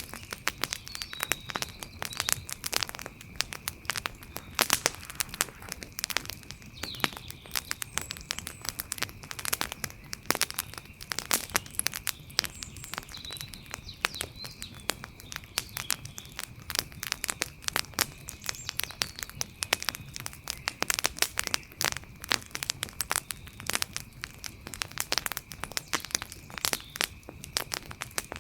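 Wood campfire crackling, with dense, irregular sharp pops and snaps. A steady high-pitched tone and a few faint chirps run underneath.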